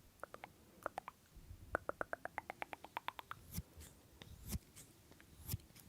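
Close-miked eating mouth sounds: scattered sharp wet clicks, a quick run of them about ten a second starting about two seconds in, then three louder crunchy bursts in the second half.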